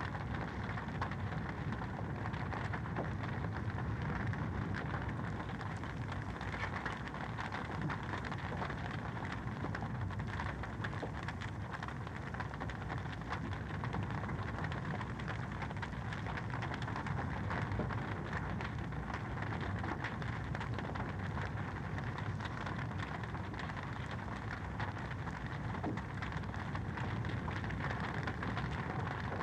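Fireplace fire crackling steadily: a dense, even patter of small pops and snaps over a low rumble.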